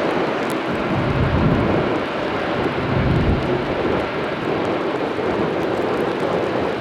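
Jet engine noise from a landing Lufthansa Boeing 747-400: a loud, steady rumble and rush.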